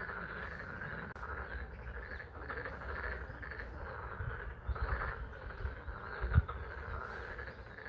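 Dense chorus of frogs calling at a pond in spring rain, a steady pulsing mass of calls. Scattered low thuds run underneath, the loudest about six seconds in.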